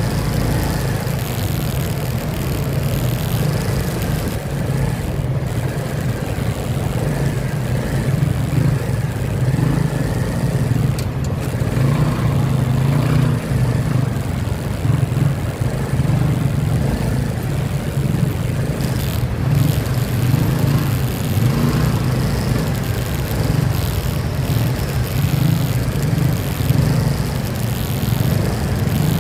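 Motorcycle engine running steadily at cruising speed, with a constant rush of wind and road noise.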